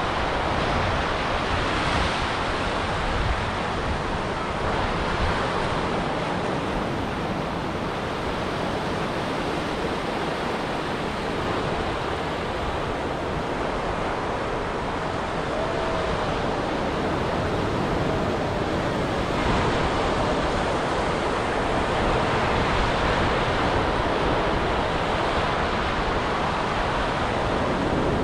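Ocean surf on a beach: a continuous rush of breaking waves that swells a little in the second half.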